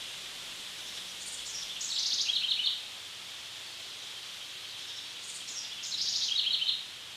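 A songbird sings two short phrases about four seconds apart, each a quick run of notes stepping down in pitch. Under it runs a steady high hiss of woodland ambience.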